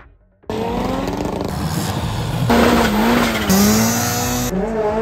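After a brief near-silence, a fast cut sequence of performance car engines revving, with tyre squeal, starting suddenly about half a second in and changing abruptly about every second.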